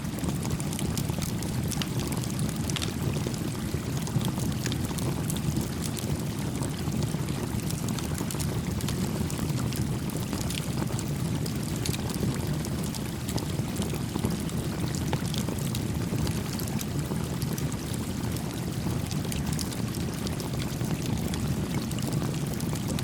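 Small stream babbling steadily, with the light crackling and popping of a small campfire over it.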